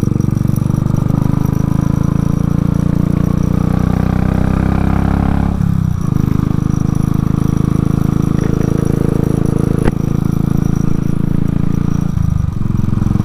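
Royal Enfield Classic 500's single-cylinder engine pulling under way: its pitch climbs steadily, drops sharply at a gear change about five and a half seconds in, then runs steady, with another brief dip near the end. A single sharp click near the middle.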